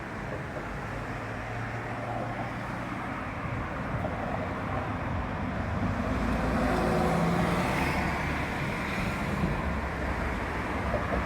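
Road traffic noise: a motor vehicle passing, its sound swelling to a peak about seven seconds in and then easing off.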